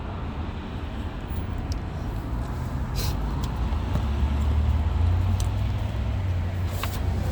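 Low, steady rumble of passing road traffic that swells toward the middle, with a few faint clicks of the door latch parts being handled.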